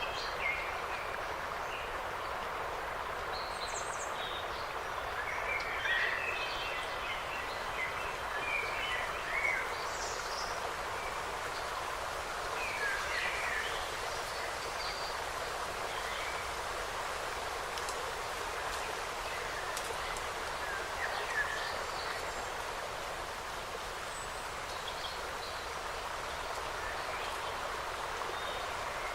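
Forest ambience: short, scattered bird chirps and calls over a steady outdoor hiss.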